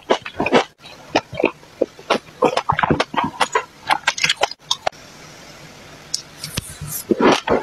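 Close-up chewing and crunching of mixed seeds, a quick irregular run of crisp clicks. About five seconds in comes a steady hiss lasting roughly two seconds as seeds slide out of a tipped glass decanter into the mouth, then the crunching starts again.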